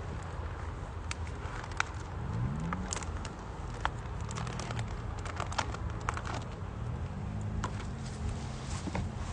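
Wood fire crackling in a small campfire stove, with irregular sharp pops and snaps over a low steady background rumble.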